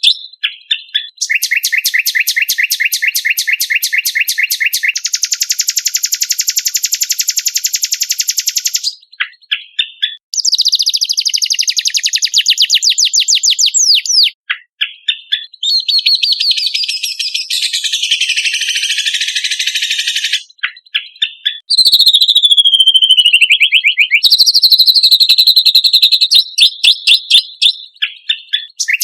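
Cucak kombok (kecial kombok) singing loud and nearly non-stop: long, very fast high trills alternating with buzzy chattering runs and sweeping notes, with a few brief pauses.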